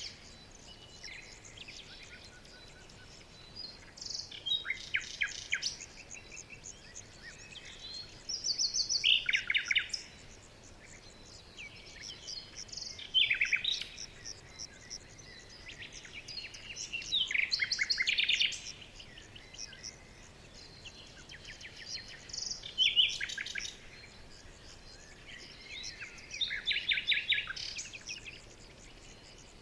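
Songbirds singing in a forest: phrases of rapid, high chirping notes recur every few seconds over a faint steady background hiss.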